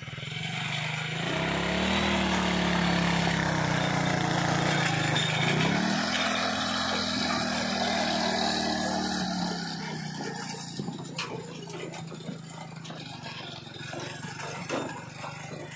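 Vehicle engine accelerating. Its pitch climbs, eases off about five seconds in, climbs again and then fades away, followed by a few sharp knocks near the end.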